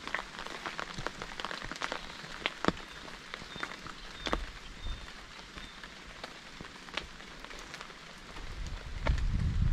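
Rain falling, with a steady patter and many distinct, irregular drop taps close to the microphone. Near the end a low rumbling noise swells up and becomes the loudest sound.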